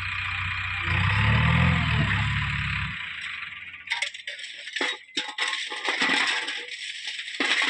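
Heavy diesel engine working and building up about a second in, then dropping away near three seconds. It is followed by a loose rattling clatter of stones with sharp knocks, as white stone is tipped into a truck body.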